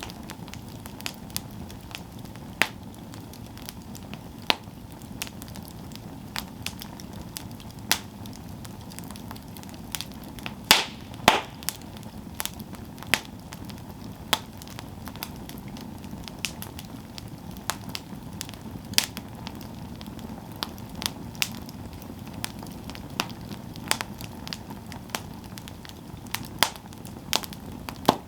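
Campfire of burning wood crackling, with irregular sharp pops and snaps over a steady low rumbling hiss of the flames; a cluster of louder pops comes a little before the middle.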